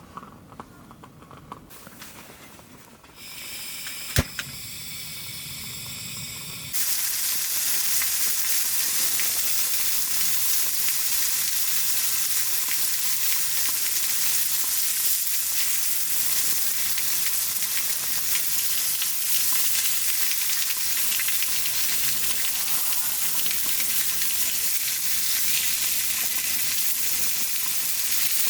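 Food sizzling in a hot pan. The loud, steady sizzle starts abruptly about seven seconds in, after a quieter stretch with one sharp click.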